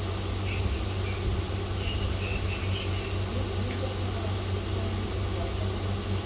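A steady low mechanical hum under an even hiss, with a few faint, brief high chirps in the first half.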